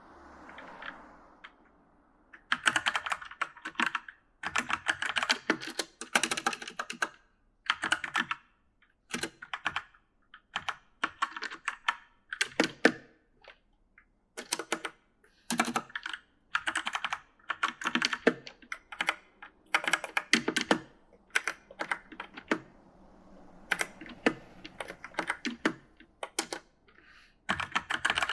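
Typing on an e元素 (E-Element) mechanical gaming keyboard: quick runs of key clacks, each lasting a second or two, with short pauses between them. The typing starts about two and a half seconds in, after a soft rustle.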